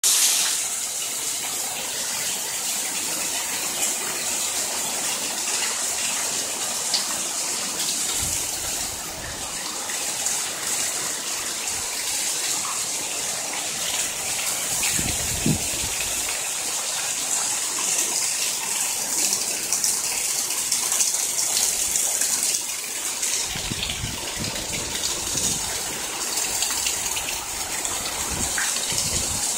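Heavy rain falling steadily, with water gushing off the roof edge. Gusts of wind rumble on the microphone a few times, most in the last several seconds.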